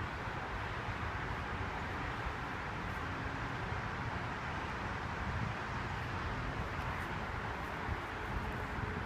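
Steady wind noise, with a low fluttering rumble of wind on the microphone.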